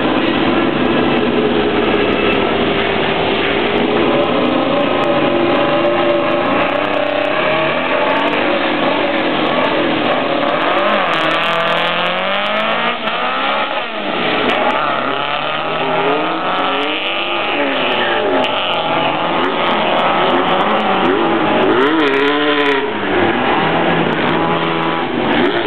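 Two hot-rodded 1967 Volkswagen Beetles' air-cooled flat-four engines, held at high revs side by side at the start line, then accelerating hard down the drag strip. The engine pitch rises and drops again and again as they shift up through the gears.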